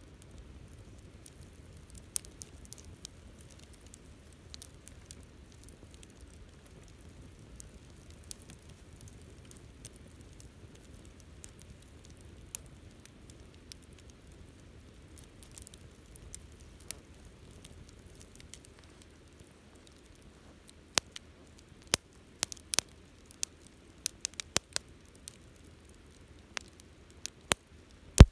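Wood campfire crackling: scattered sharp pops and snaps over a soft steady hiss, growing more frequent from about two-thirds of the way in.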